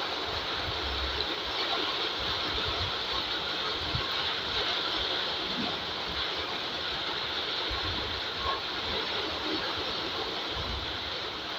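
Heavy rain falling steadily on wet ground and puddles, an even hiss, with irregular low rumbles now and then.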